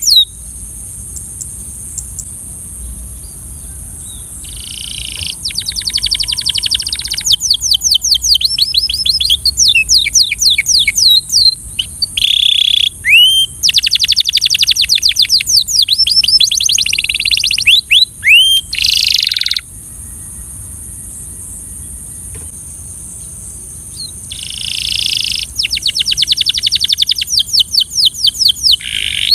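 Belgian canary singing long phrases of rapid repeated sweeping notes, trills of about ten notes a second. It pauses for a few seconds at the start and again about two-thirds through. A steady high hiss runs underneath.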